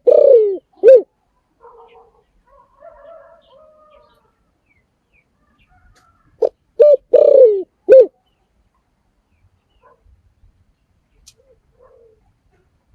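Spotted dove cooing. One phrase finishes in the first second, and a full phrase comes about six and a half seconds in: two short coos, a longer falling coo and a final short one. Fainter, softer calls come in between.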